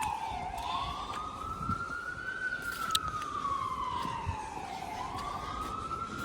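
Emergency vehicle siren in a slow wail, its pitch sweeping down and up in long cycles of about four to five seconds, over a low rumble.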